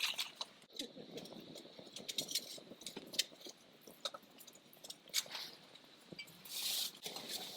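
Faint scattered clicks and light clinks of a bottle and tableware being handled while yuzu ponzu is poured over a dish, with a short soft hiss near the end.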